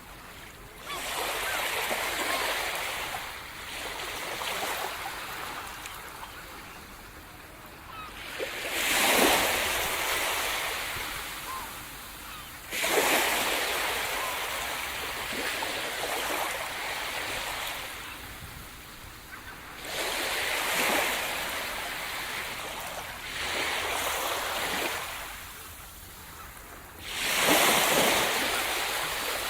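Sea surf: waves breaking on the shore one after another, each surge rising suddenly and then washing out over a few seconds. The heaviest breaks come about a third of the way in and near the end.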